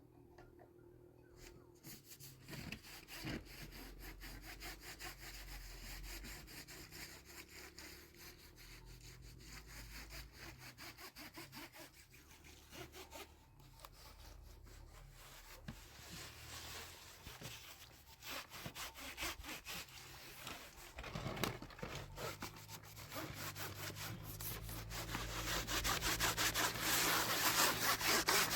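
Rapid, repeated scraping strokes by hand, rubbing against a hard surface, growing louder in the last several seconds.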